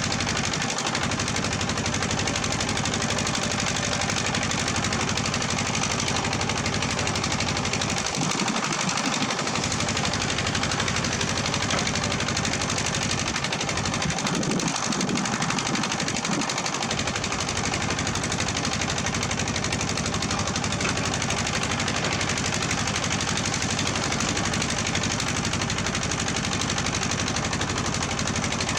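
Diesel engine of heavy earthmoving equipment running with a rapid, even clatter. Its low rumble drops away briefly twice.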